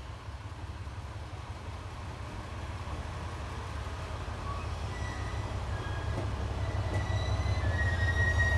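Ibara Railway IRT355 diesel railcar pulling in alongside the platform, its engine and wheels rumbling low and growing steadily louder as it draws level. Short high squeals join from about halfway and turn into a steadier squeal near the end as it brakes for the stop.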